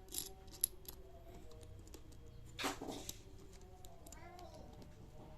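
Light clicks and small metallic clinks from handling a stainless steel burr coffee grinder and its parts, with one short scraping rush about two and a half seconds in.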